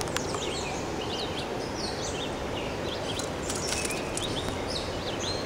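Songbirds chirping and whistling in many short, quick calls over a steady rushing background noise.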